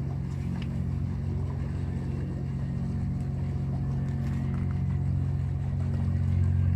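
Fishing boat's diesel engine running with a steady low drone as the boat comes into the harbour, getting a little louder near the end.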